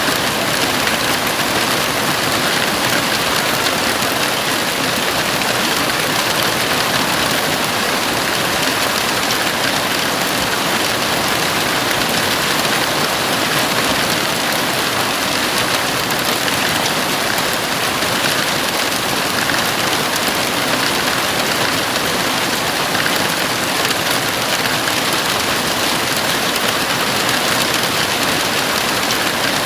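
Heavy rain drumming steadily on a house roof, a dense unbroken hiss with no let-up.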